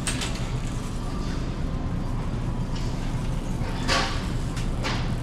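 Steady low background rumble with a few brief clattering or rustling noises, the loudest about four seconds in.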